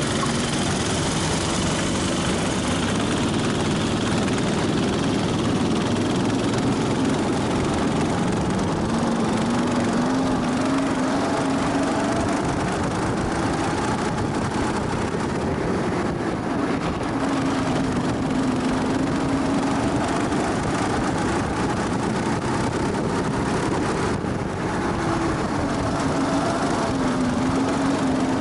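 Go-kart engine heard onboard at speed, its pitch rising and falling repeatedly as the driver works through the gears and corners, over steady wind and road noise.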